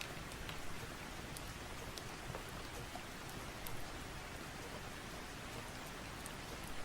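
Steady rain, an even hiss of falling drops, with a few faint sharp clicks scattered through it.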